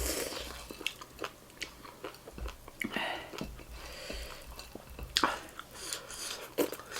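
Chewing and crunching food in the mouth, with scattered small clicks and smacks.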